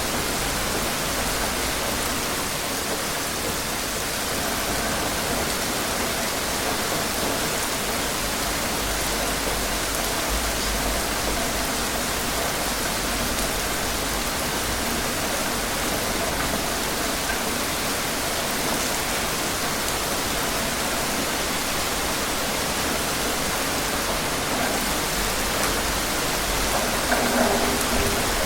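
Steady rain, an even hiss, with a slight swell near the end.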